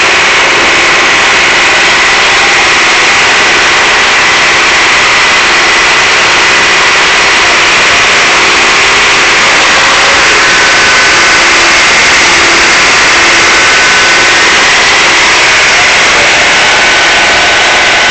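Tractor engine running steadily and loud.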